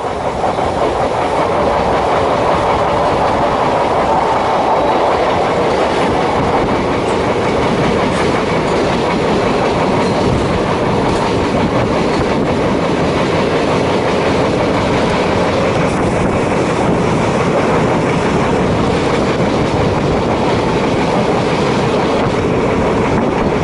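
DEMU (diesel-electric multiple unit) train running along the track: a steady loud rumble of train noise with the clatter of wheels over rail joints.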